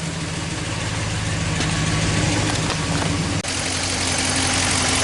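A 2014 Ram 1500's 5.7-litre Hemi V8 running steadily at idle just after start-up, with a known misfire on cylinder 6. There is a brief break about three and a half seconds in, then the idle carries on.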